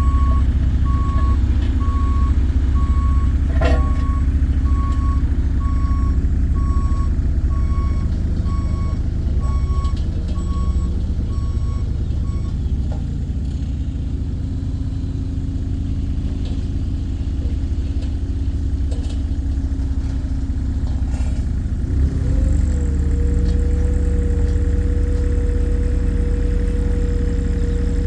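JCB CT260 road roller's engine running while its reversing alarm beeps steadily. The beeping stops about twelve seconds in. About 22 seconds in, the engine note changes and a steady hum sets in.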